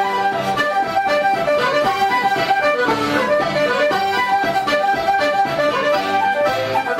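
Instrumental Irish traditional music, an accordion playing a lively melody.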